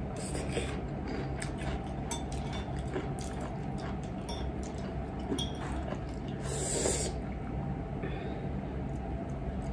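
Chewing a mouthful of broccoli, with small clicks and scrapes of a metal fork on a ceramic plate as spaghetti is twirled, over a steady low hum. One brief louder noisy sound comes about seven seconds in.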